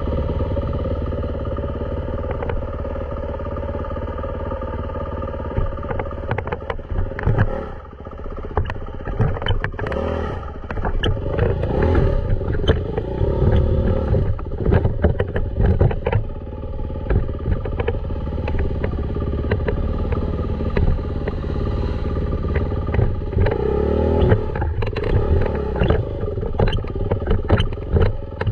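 Dirt bike engine running steadily, with many sharp knocks and rattles from about seven seconds in.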